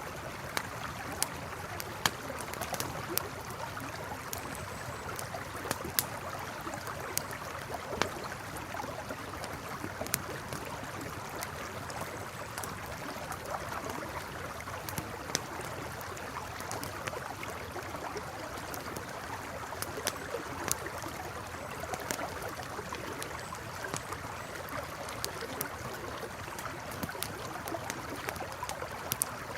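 Campfire crackling with sharp, irregular pops over the steady rush of a flowing river.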